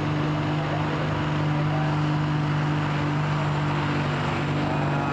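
A pulling tractor's engine running steadily at an even pitch, with no revving up or down.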